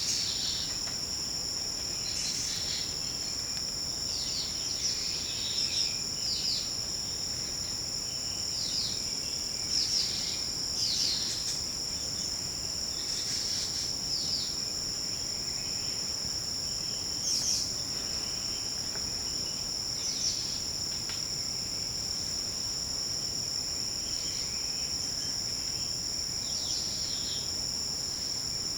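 A steady, high-pitched insect chorus sounds at several pitches at once. Short falling bird chirps come over it every second or two, more often in the first half.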